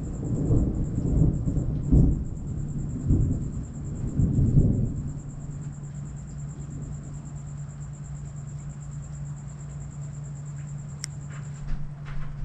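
Thunder rumbling in several swells for about five seconds, then dying away and leaving a steady low hum. A few sharp clicks come near the end.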